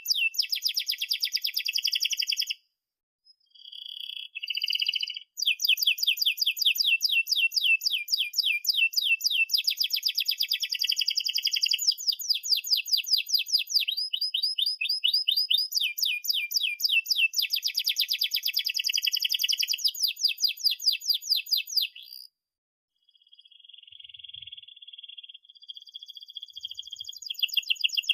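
Domestic canary singing vigorously in long rolling trills of rapidly repeated high notes. The song breaks off briefly about three seconds in and again about 22 seconds in, then resumes, growing louder near the end.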